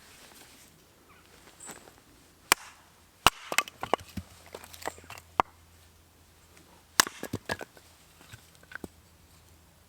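Firewood being worked by hand: a few sharp wooden cracks and knocks, some followed by a quick run of smaller cracks.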